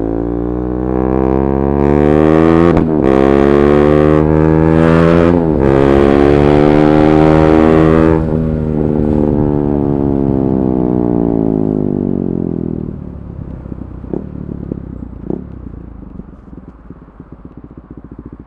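KTM 390 Duke single-cylinder engine breathing through an Akrapovic slip-on exhaust with the catalytic converter removed, revving up hard through two quick upshifts. About eight seconds in the throttle is rolled off and the engine note winds down, quieter, with a couple of pops from the exhaust near the end.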